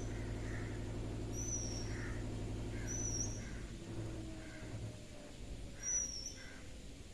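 Birds calling: short, high whistled notes repeating every second or two, with softer lower notes between them, over a steady low hum.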